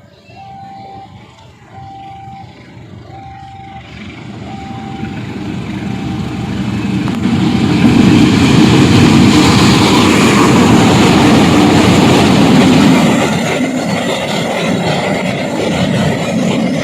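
A train passes close by, building from about four seconds in, loudest in the middle, then easing off. Over the first few seconds a short single-pitched tone repeats about once a second and fades out.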